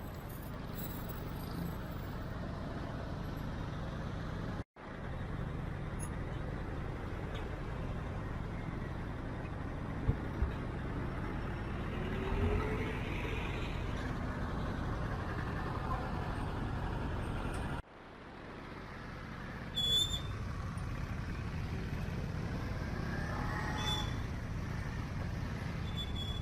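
Steady rumble of city street traffic from passing vehicles, cutting out abruptly twice, about five seconds in and again near eighteen seconds, as if the recording was edited.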